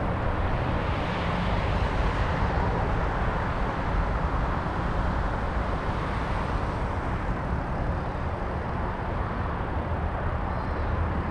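Steady rushing wind and road noise on the camera microphone while riding an electric bike, with a heavy low rumble.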